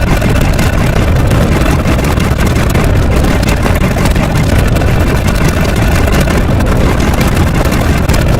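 A loud, steady, engine-like low rumble of noise with no clear pitch.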